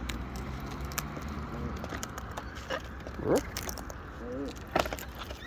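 Cockatoos feeding at close range: scattered sharp clicks and cracks of beaks working at food, with two short calls a little after halfway.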